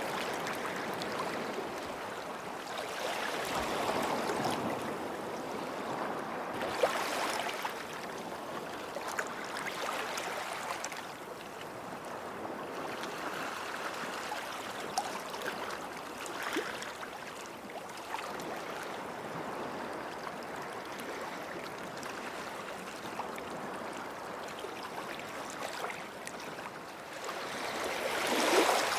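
Small sea waves washing onto a sandy beach and drawing back, swelling and ebbing every few seconds with a light fizz. The largest wave breaks near the end.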